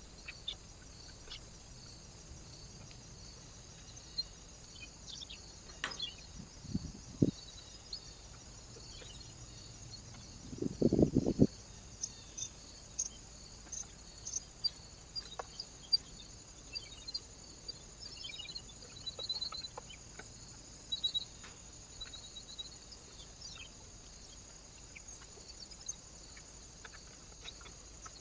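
Small birds at a feeder: short high chirps and calls with scattered taps and knocks, and a louder low rustling thump about eleven seconds in, over a steady high hiss.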